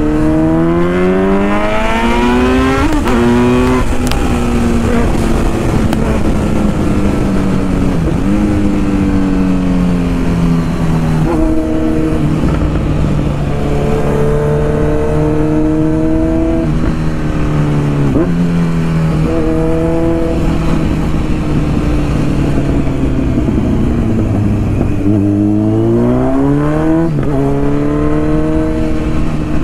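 Kawasaki Z900's inline-four engine through an Akrapovic titanium full-system exhaust, accelerating under way. It revs up with a gear change about three seconds in, then winds down and holds fairly steady through several shifts, and near the end it revs up hard again through another upshift.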